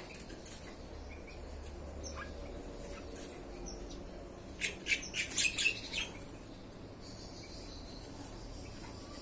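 Small birds chirping, with scattered short calls and a quick run of loud, sharp chirps about halfway through.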